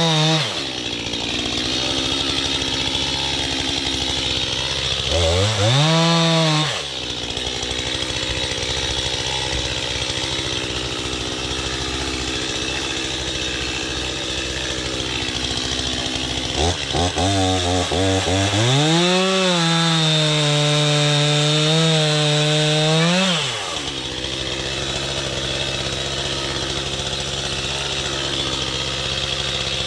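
Two-stroke chainsaw idling steadily and revved up to high throttle in bursts: once around six seconds in, then a few quick blips and a longer run from about nineteen to twenty-three seconds, dropping back to idle each time.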